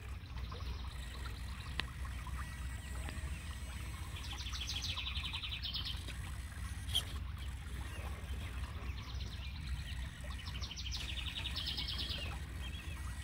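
A songbird sings two rapid trilled phrases about five seconds apart over a steady low rumble, with a single sharp tick between them.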